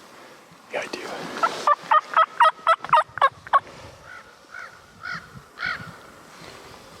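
Wild turkey gobbler gobbling: a fast rattling string of about eight notes from about one and a half to three and a half seconds in, followed by a few shorter calls in pairs.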